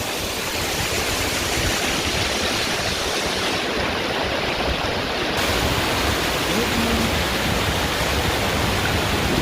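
Steady rush of river water tumbling over a small waterfall.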